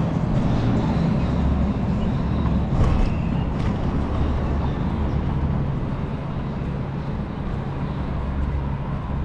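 Urban traffic noise: a steady low rumble of vehicles going by.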